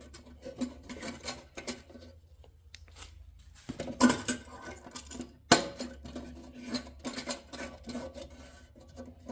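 Metal parts and tools clinking, knocking and scraping as they are handled, with two sharper knocks about four and five and a half seconds in.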